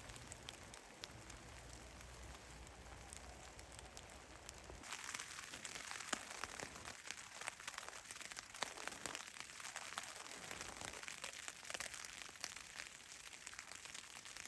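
Rain falling, with a dense patter of individual drops ticking. It gets louder and busier about five seconds in.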